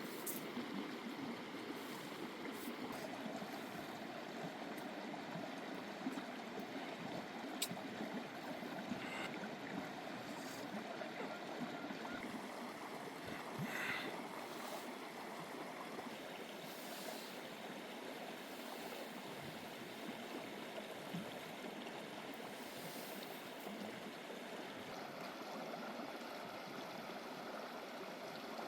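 Steady rushing water, like a stream, with a sharp click about seven and a half seconds in and a brief rattle near the middle.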